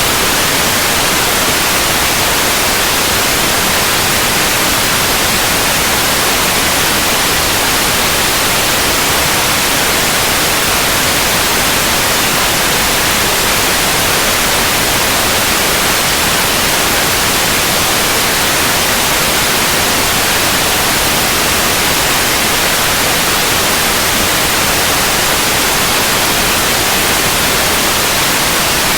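Steady white noise: an even hiss across the whole range, brightest in the highs, unchanging throughout.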